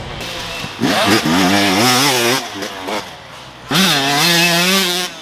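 KTM SX150 single-cylinder two-stroke dirt bike engine revving hard twice. Each time the pitch sweeps up and then holds high for over a second, with a lower, quieter stretch in between.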